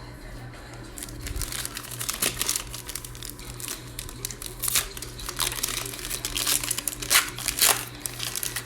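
Plastic trading card pack wrapper being crinkled and torn open by hand, a dense crackling that starts about a second in.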